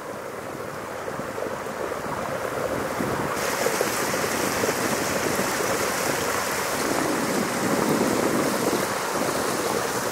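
Water rushing and splashing along the hull of a moving river boat, with wind buffeting the microphone. It grows louder over the first few seconds, and a high hiss joins about a third of the way in.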